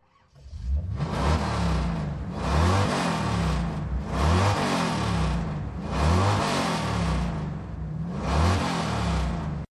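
A car engine revved over and over, its pitch climbing and falling back in swells about every two seconds, cutting off abruptly.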